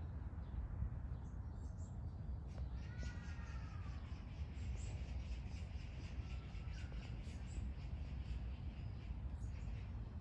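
Forest ambience of small birds chirping in short high notes, with a falling, mewing call about three seconds in and a shorter one near seven seconds, over a steady low rumble.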